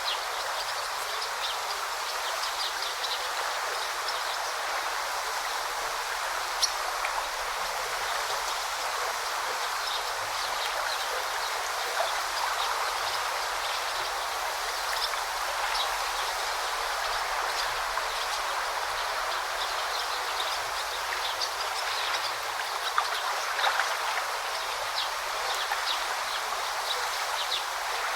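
A forest river babbling steadily, with birds chirping in short, repeated calls over the water throughout.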